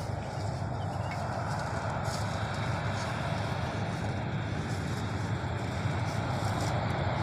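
Heavy truck engine running steadily, a low rumble that grows slightly louder over the few seconds.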